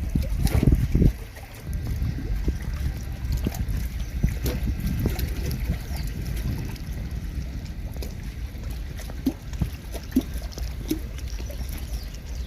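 Low rumbling noise of wind buffeting the microphone over flowing water, heaviest in the first second, with a few faint knocks later on.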